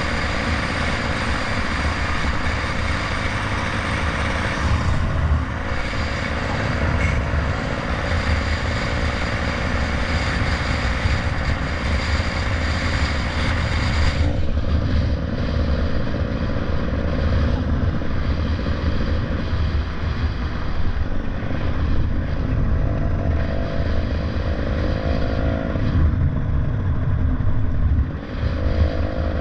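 Motorcycle under way: heavy wind rush on the microphone over the engine, whose note rises twice in the second half, the second time just after a brief drop in level, as it accelerates.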